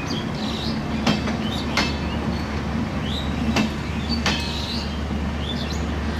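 LHB passenger coaches rolling past close by: a steady rumble of steel wheels on the rails, with sharp clacks in pairs as the bogies cross a rail joint, twice.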